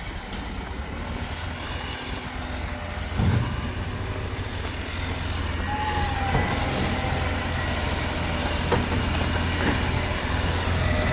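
Refuse collection truck's diesel engine running steadily, with a knock about three seconds in, after which the engine grows gradually louder.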